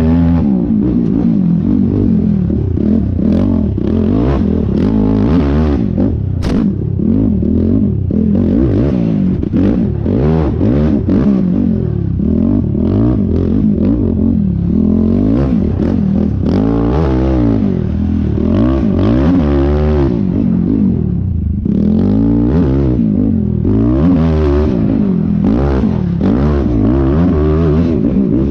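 Yamaha YFZ450R race quad's single-cylinder four-stroke engine, ridden hard over rough, whooped terrain. The revs keep rising and falling as the throttle is worked, with a brief let-off a little past twenty seconds in. A single sharp click is heard about six seconds in.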